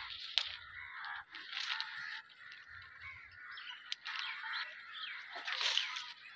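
Several birds chirping and calling together, with a couple of sharp clicks, one about half a second in and one about four seconds in.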